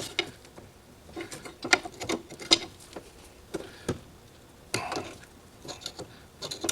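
Irregular light clicks and knocks of hand tools and metal parts being handled during work on a car's front end, about a dozen sharp taps scattered through the few seconds.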